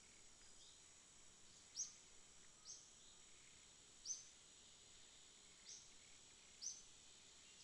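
Night ambience, faint: a steady high insect drone with short, sharp high chirps standing out about five times, at uneven intervals.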